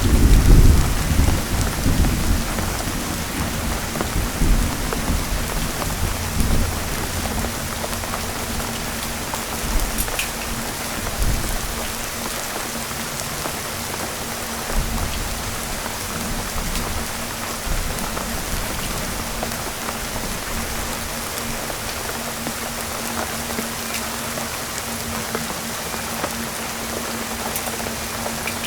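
Heavy rain falling steadily, with a low rumble of thunder at the start that fades over the first few seconds.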